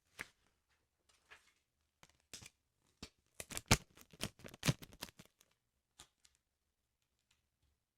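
Close-miked paper and sticker handling on a sticker album: scattered crisp crackles and taps, with a dense flurry of crackling in the middle.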